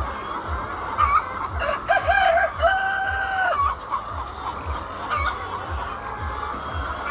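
A rooster crows once, starting about two seconds in and lasting about two seconds, over hens clucking. A low thudding repeats just under twice a second underneath.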